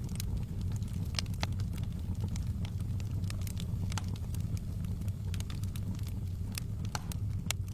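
Wood fire burning in a fireplace: a steady low rumble of flames with sharp crackles and pops at irregular moments, a few each second.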